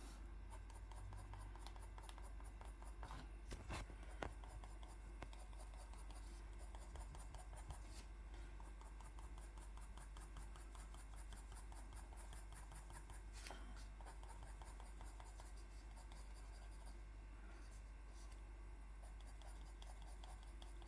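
Faint scratching of a pencil colouring on paper, with a few soft taps.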